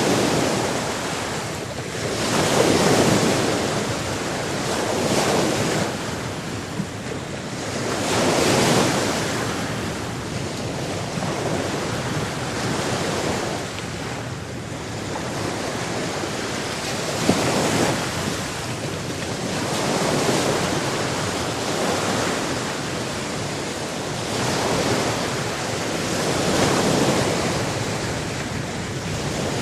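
Sea waves washing onto a shore, surging and falling back every few seconds in a steady rush of surf.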